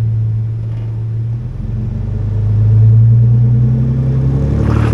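4x4 truck engine running under load while driving an off-road trail, its note swelling a couple of seconds in. Near the end a rushing noise joins it.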